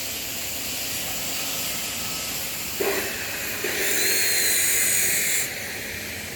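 Steam boiler with a steady rushing noise, and a loud hiss of escaping steam just past the middle that lasts under two seconds and cuts off suddenly.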